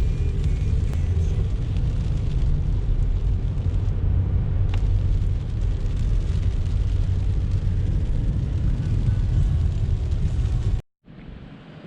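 Steady low rumble of a car driving, with road and engine noise; it cuts off abruptly near the end.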